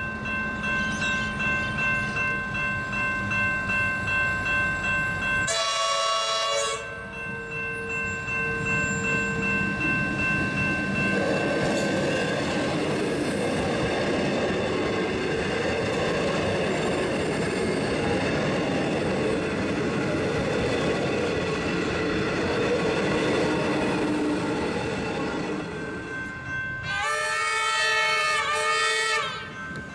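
Level crossing bells ringing with a steady pulse while a train horn sounds for about a second, then a Siemens electric suburban train passes close by with a broad rush of wheel and traction noise. Near the end an approaching Comeng electric train sounds its horn for about two seconds, its pitch wavering.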